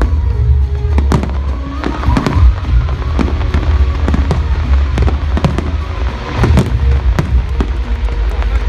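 Fireworks display: a dense, irregular run of bangs and crackles over a continuous low rumble.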